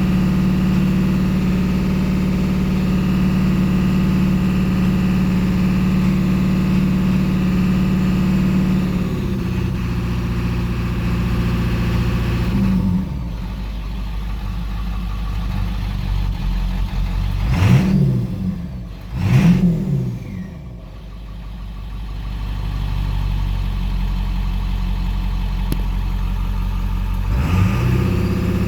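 Ford 7.3-litre diesel V8 idling, revved up twice in quick succession around the middle and settling back to idle, then blipped once briefly near the end. The owner reports a misfire on this engine.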